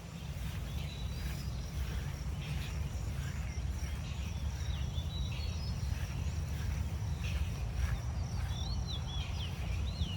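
Wind buffeting the microphone, a steady low rumble, with small birds chirping and whistling in the background, several calls near the end.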